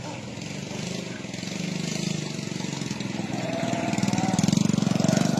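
A motor vehicle engine running with a fast, even pulse, growing steadily louder, with a faint wavering higher tone about three and a half seconds in.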